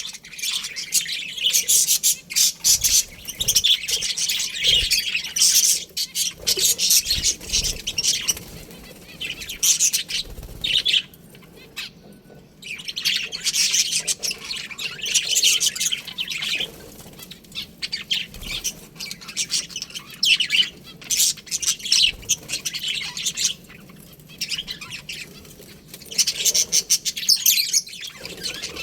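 A colony of budgerigars chirping, many birds at once, in bursts with short lulls between.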